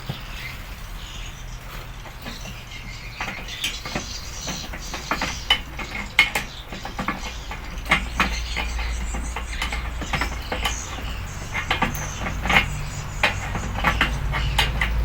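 Workshop clatter: irregular metallic clinks and taps from parts and tools being handled, over a low steady hum that grows louder about halfway through.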